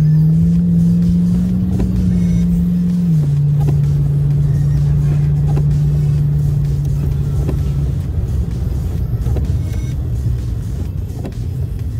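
Car engine and road noise heard from inside the cabin: the engine note rises as the car accelerates, drops suddenly about three seconds in as the transmission shifts up, holds steady while cruising, then fades into a low rumble as the car eases off.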